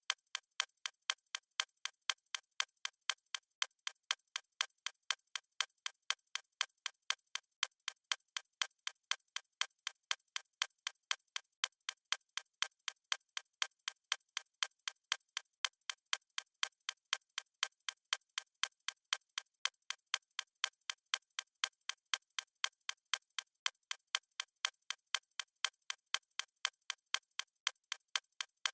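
Stopwatch ticking sound effect: a fast, even run of sharp, high clicks with no low end.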